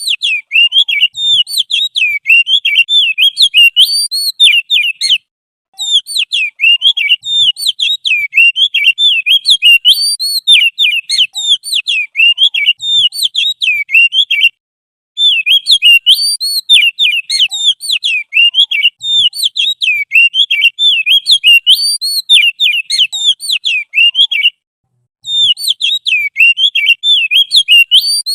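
Recorded songbird song: rapid, high twittering and chattering phrases in long runs, each broken off by a short pause about every ten seconds.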